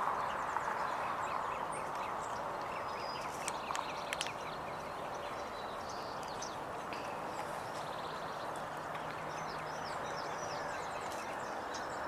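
Outdoor ambience: a steady distant hum with scattered faint bird chirps, and a few soft clicks about three and a half to four seconds in.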